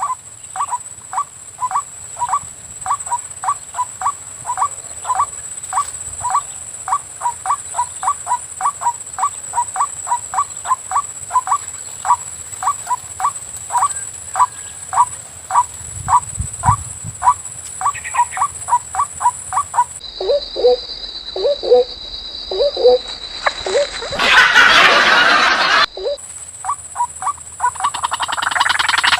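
White-breasted waterhen calls: one short note repeated about two to three times a second, over a steady high whine. About two-thirds in, the sound changes abruptly to lower, slower calls and a loud rush of noise lasting a couple of seconds, and then the quick calls start again near the end.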